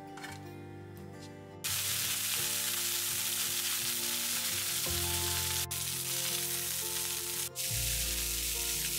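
Pork-belly-wrapped tofu frying in oil in a nonstick frying pan: steady sizzling that starts abruptly about a second and a half in and keeps going, with two brief breaks.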